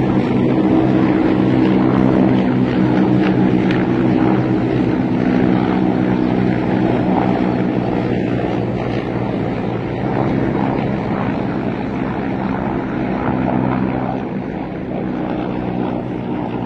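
Several military helicopters flying past, a steady loud drone of rotors and turbine engines that eases a little near the end.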